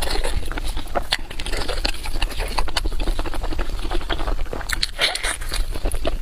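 Close-miked eating: a person biting and chewing food with many rapid, irregular clicks.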